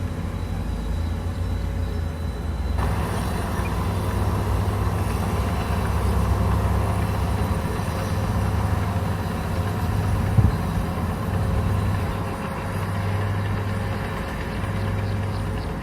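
Komatsu bulldozer's diesel engine running steadily while working, with a single sharp knock about ten seconds in.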